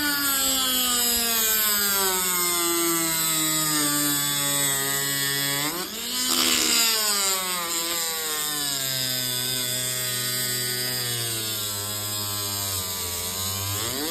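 Angle grinder motor whining as it grinds a glitter sheet, its pitch slowly dropping as it bogs down under the load. About six seconds in it speeds back up briefly, then slows again under the load.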